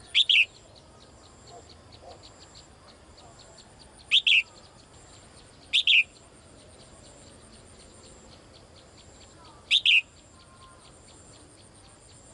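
A female caged songbird giving sharp, short calls four times, each a quick double note sliding down in pitch; the calls are to attract a male.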